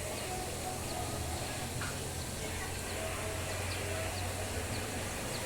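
Outdoor ambience: a steady low engine hum with short bird calls scattered through and an even background hiss.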